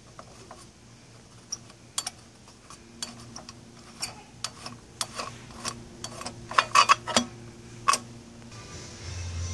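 Irregular sharp metallic clicks and clinks of hand tools loosening the screws and bolts that hold a lawnmower's gas tank, sparse at first and coming thick and fast about six to seven seconds in. A low hum rises near the end.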